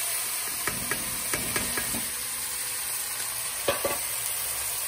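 Chopped vegetables sizzling steadily in hot oil in a pot, just tipped in, with a few light metal knocks against the pot about a second in and again near the end.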